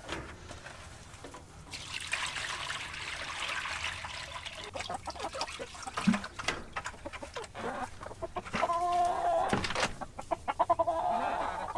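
Chickens clucking in short pitched calls, loudest in the last few seconds, over rustling and scattered clicks.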